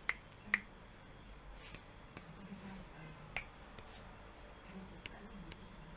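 A few faint, sharp clicks and ticks, scattered irregularly over a quiet background.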